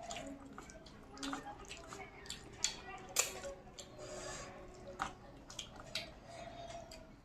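Close-up eating sounds: wet mouth clicks and chewing of rice and curry, with a series of short sharp clicks, the loudest about three seconds in.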